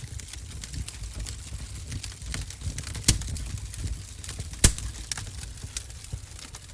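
Wood fire crackling in a fireplace: a dense run of small snaps over a low rumble of flame, with two louder pops about three seconds in and again a second and a half later.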